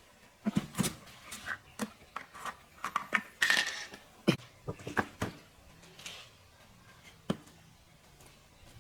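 Irregular light clicks and clatters of hard objects being handled, with a brief louder scrape about three and a half seconds in.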